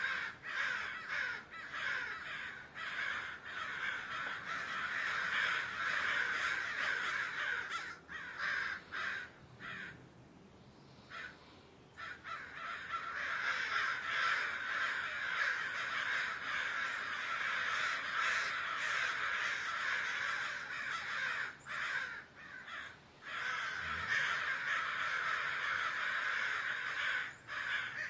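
Crows cawing, many calls overlapping in a dense, continuous chorus, with a lull about ten seconds in before the calling picks up again about two seconds later.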